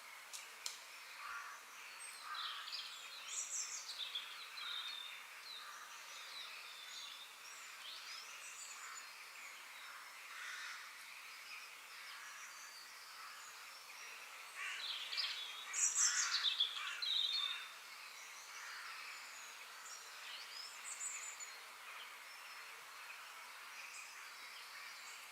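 Forest ambience: several birds chirping and calling over a faint steady hiss, with a louder flurry of calls a little past the middle.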